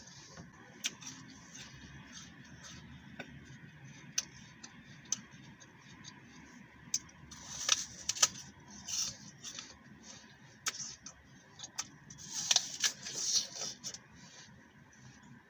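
Chewing a crisp green apple close to the microphone: scattered sharp mouth clicks, with louder bursts of crunching about halfway through and again near the end.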